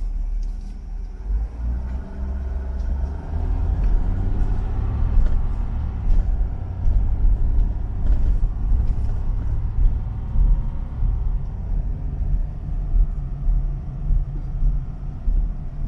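Vehicle driving through town: a steady low rumble of engine and road noise, with a faint engine note rising and falling through the middle.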